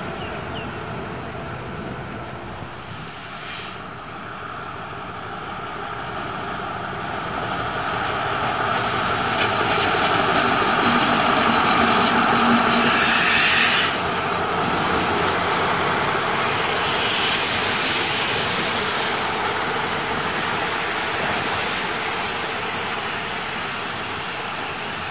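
Trains running through the station: the continuous rumble of passenger coaches on the rails, then a State Railway of Thailand diesel locomotive drawing in. The sound swells to its loudest with a hiss near the top just before it drops off abruptly about fourteen seconds in, and then carries on at a lower, slowly fading level.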